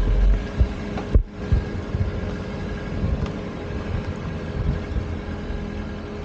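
Eeco camper van driving on a highway: a steady low road and engine rumble, with irregular low thuds from gusts of strong wind, strongest in the first second or two.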